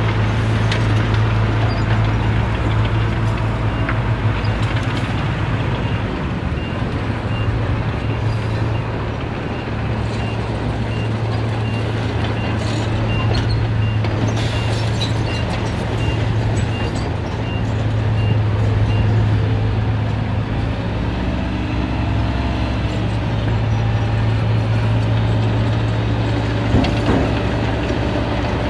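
Heavy diesel earthmoving machinery running steadily, with a deep, constant engine hum. A reversing alarm beeps about twice a second through the middle of the stretch, fading out before the end.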